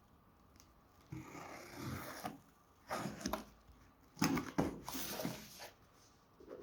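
A smartphone retail box being opened by hand: cardboard and packaging scraping and rustling in several short spells of about a second each, with brief pauses between.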